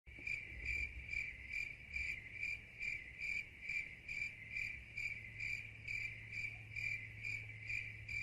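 Cricket chirping sound effect: a steady high chirp repeating evenly about twice a second.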